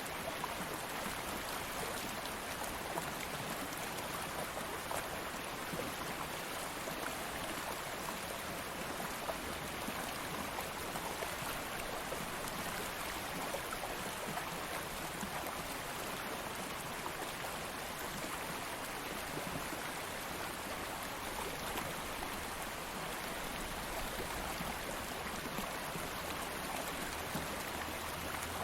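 Stream water flowing and babbling over rocks in a steady, even rush with no other events.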